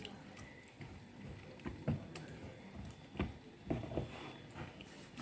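Spoon stirring a thick poundo yam flour-and-water mixture in a bowl, with irregular soft knocks and scrapes as it works the paste; the loudest knocks come about two, three and four seconds in.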